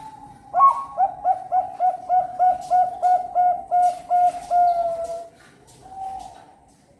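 Zebra dove (perkutut, Bangkok contest line) singing: a quick run of about a dozen short coos at roughly three a second, ending in one longer, slightly falling note, followed by a softer single coo.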